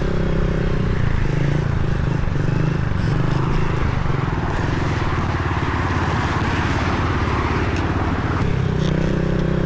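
Pit bike engine running at a steady pace while riding, with wind rush on the microphone. In the middle the engine note drops back under the wind noise, then comes up again near the end.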